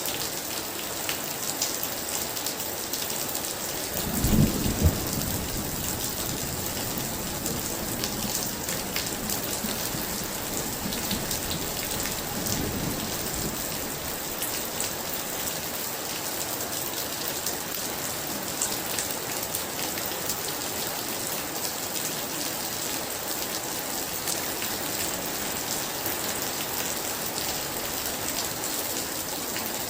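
Heavy rain falling steadily, with a peal of thunder rumbling about four seconds in and a fainter rumble a few seconds later.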